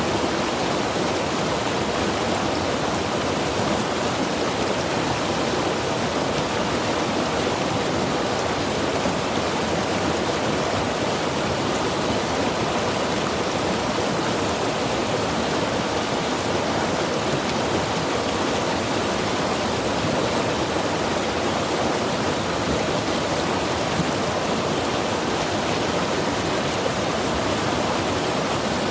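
Mountain river rushing steadily over rocks, an even, unbroken wash of water noise.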